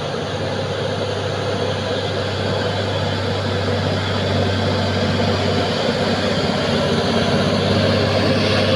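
Old truck's engine running steadily under load on a steep climb, with a constant low hum, slowly growing louder.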